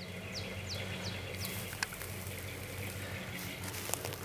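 1979 GMC 4x4 pickup's engine running steadily as the truck drives through mud and water, with a hiss of spray that thickens after a second or so. A few short high chirps sound in the first second and a half.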